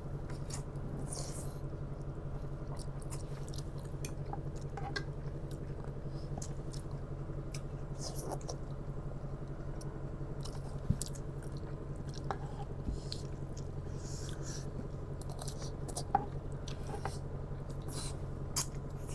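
Close-up chewing of spicy instant noodles, with scattered short wet smacks and clicks from mouths and utensils, over a steady low hum.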